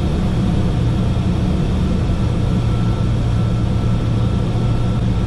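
Steady cockpit noise inside a Learjet 45XR: a low, even drone of the engines and rushing air, with a faint thin tone running through it for a few seconds.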